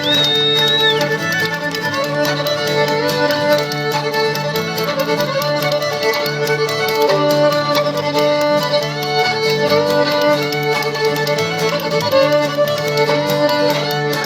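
Instrumental break by an old-time string band: a fiddle plays the lead over strummed acoustic guitar, with spoons clicking a steady rhythm.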